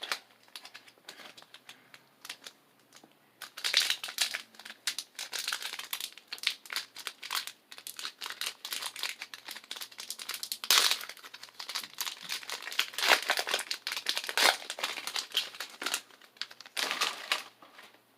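Pokémon booster pack wrapper crinkling in irregular bursts as it is handled and torn open.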